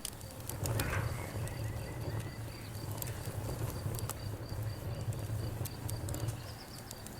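Wood fire burning, with scattered sharp crackles and pops over a steady low rumble of flame, the strongest pop about a second in. A faint, even, high-pitched pulsing runs underneath.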